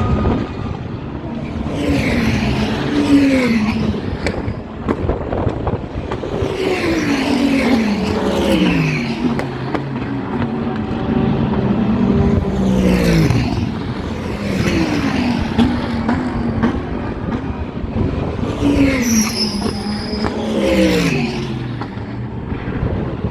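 GT race cars passing at speed one after another, about six passes, each engine note dropping in pitch as the car goes by.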